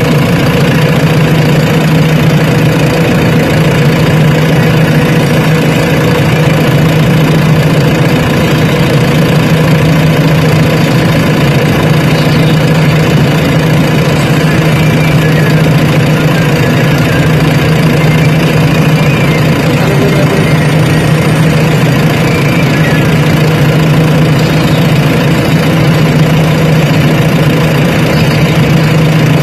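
Heavy diesel engine running steadily with a constant low hum that holds the same pitch throughout.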